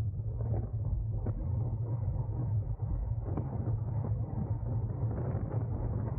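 Steady low rumble of wind and tyre noise on a bicycle-mounted camera riding at race speed, with a couple of faint clicks.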